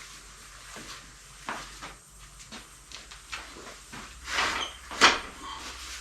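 Scattered light knocks and clicks of things being handled, with a louder clatter about four seconds in and one sharp knock about five seconds in.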